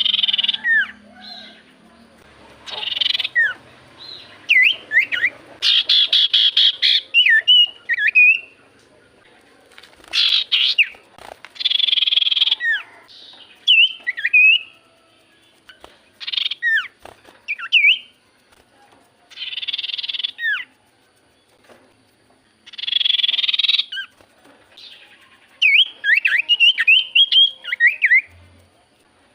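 Common iora (cipoh) calling loudly: harsh buzzy chatters about a second long alternating with quick, sharp down-slurred whistles, repeated over and over.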